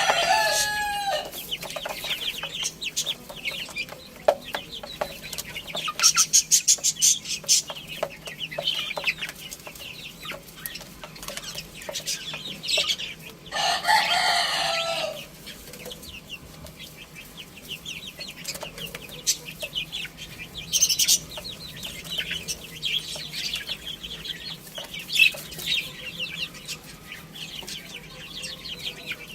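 Chickens: the end of a rooster's crow about a second in and another long call about halfway through, over clucking and many short high-pitched chirps.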